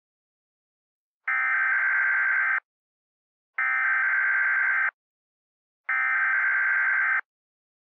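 Emergency Alert System SAME header: three identical bursts of warbling digital data tones, each about a second and a quarter long with a second's gap between them. It is the coded header that opens an emergency alert, here an Emergency Action Notification.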